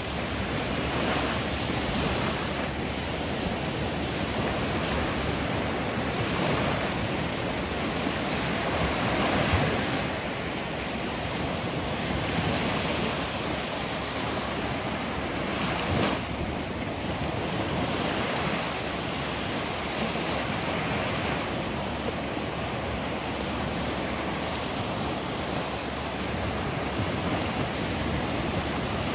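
Sea surf: waves washing in as a continuous hiss that swells and ebbs every few seconds.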